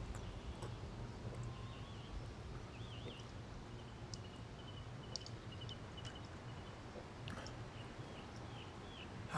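Faint outdoor ambience: small birds chirping in short twittering phrases and repeated quick notes, over a low steady hum.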